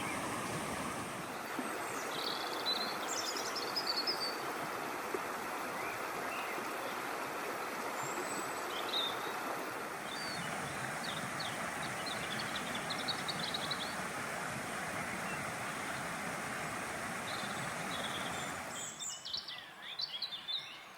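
Steady rush of a flowing river, with small birds chirping and twittering over it. The water noise cuts off suddenly near the end, leaving only the bird calls.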